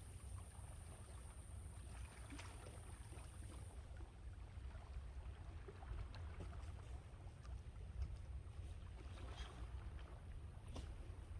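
Sea waves washing on the shore under a steady low rumble of wind buffeting the microphone, with faint crackles of water through the wash. A thin high hiss cuts off about four seconds in.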